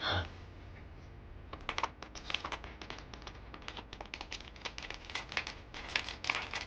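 Rapid, irregular clicking of buttons on a handheld game console being played, starting about a second and a half in.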